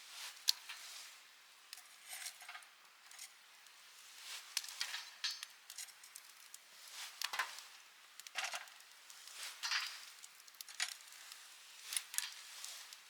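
Wood campfire crackling: irregular sharp snaps and short hissing flare-ups, several a second at times.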